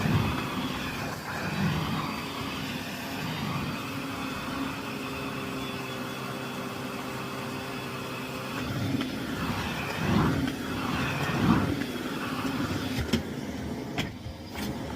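Miele Blizzard CX1 Cat & Dog PowerLine cylinder vacuum cleaner running steadily, with a held motor whine under rushing air. The air swells and falls as the floor head is pushed back and forth, and a few sharp clicks come near the end.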